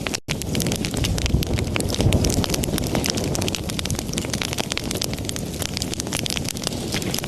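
Wood fire in a fireplace crackling and popping steadily over a low rumble of flame, with a brief dropout in the sound just after the start.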